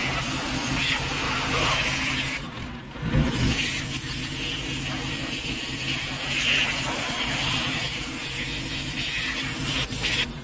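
A machine running steadily: a low hum with a hiss on top that comes and goes.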